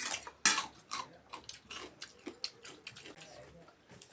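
Close-up eating sounds: chewing and crunching food, heard as a quick run of sharp clicks, loudest at the very start and about half a second in.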